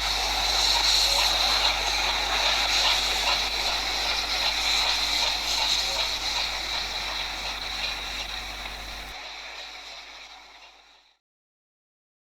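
Steady outdoor rushing hiss, strongest in the upper range. It fades away over the last few seconds and drops to silence near the end.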